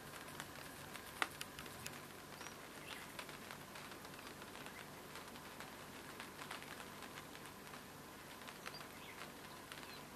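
Light rain pattering, scattered drops ticking irregularly with a sharper tick about a second in, and a few faint bird chirps.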